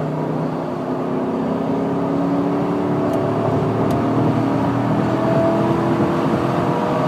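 2007 GMC pickup's 4.8-litre V8 under hard acceleration from highway speed, its engine note climbing steadily in pitch and growing louder.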